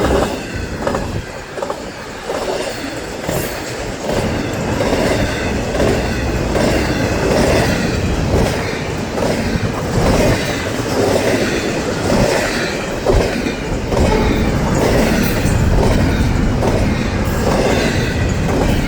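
Florida East Coast Railway freight train rolling past, a steady rumble of cars with repeated clickety-clack as the wheels cross the small gaps where the welded rail joins the crossing panel, and some wheel squeal.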